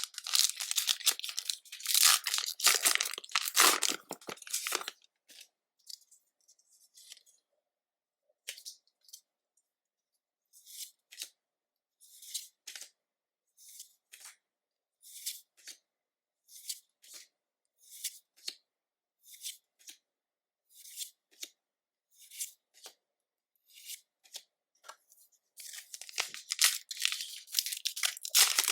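Foil trading-card booster pack torn open and crinkled. Then come a run of short, separate swishes about once a second as cards are slid one by one off the stack, and near the end more wrapper crinkling.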